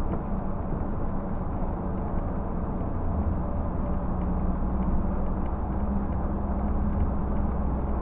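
Scania K124 coach's engine and road noise heard inside the moving bus, a steady low drone.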